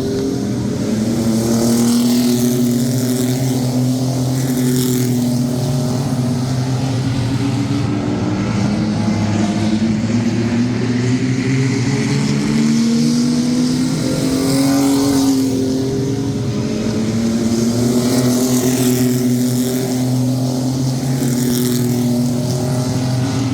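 A field of sport trucks (small race pickups) running on an oval. Their engines rise in pitch as they accelerate down the straights and drop back as they lift into the turns, so the sound swells and fades each lap as the pack passes.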